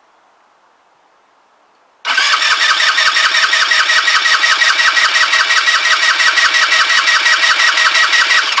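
Kymco Agility 125 scooter's single-cylinder four-stroke engine cranked by its electric starter, turning over with a rapid, regular pulsing but not firing. The carburettor is expected to be empty, so fuel has still to be drawn through. The cranking starts about two seconds in and stops at the very end.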